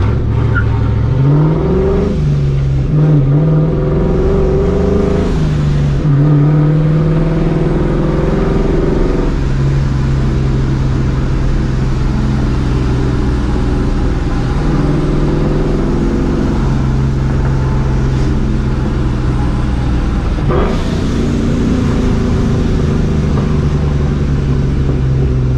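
Supercharged Ford Mustang GT V8 driving: the revs climb twice with gear changes in the first several seconds, then settle into a steady cruise. A single short, sharp crack comes about twenty seconds in.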